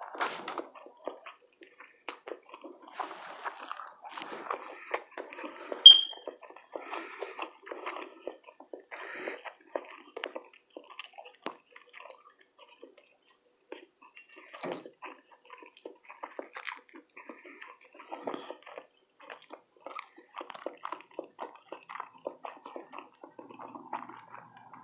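Close-miked chewing and wet mouth sounds of someone eating fish, grits and toast, with many small clicks and smacks and short pauses. A brief high-pitched ping about six seconds in is the loudest sound.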